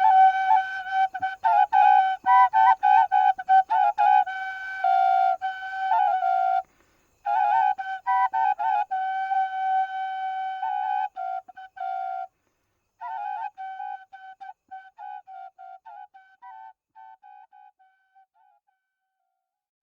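A flute playing held notes broken by quick trills around one pitch, in three phrases with short pauses between them, each quieter than the last until it dies away near the end.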